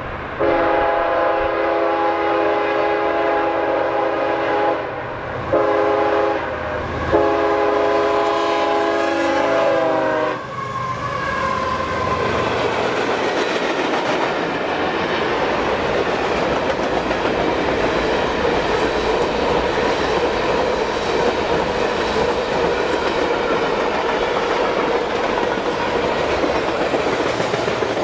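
CSX freight locomotive's air horn sounding in three blasts, a long one, a shorter one and a long one, its pitch dipping slightly as it ends about ten seconds in as the locomotive passes. Then the train's freight cars rolling by with a steady rumble and clickety-clack of wheels on the rail joints.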